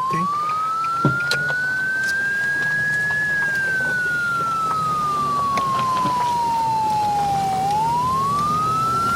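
Electronic police siren sounding a slow wail: a single clean tone rising for about three seconds, falling for about four, then rising again near the end, over a faint low steady hum.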